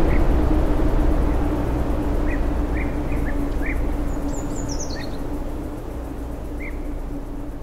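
Ambient nature soundscape: small birds give scattered short chirps, with one brief higher twittering call about halfway through, over a steady low rumbling background that slowly fades out.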